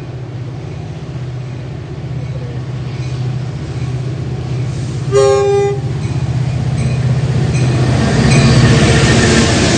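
Metra diesel locomotive approaching and passing close, its engine drone growing louder, with one short horn blast about five seconds in. The engine and wheel noise is loudest as the locomotive goes by near the end.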